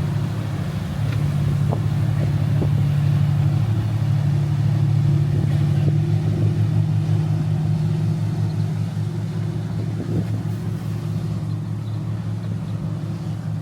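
Motorboat engines running through an inlet, a steady low drone that eases off a little over the last few seconds.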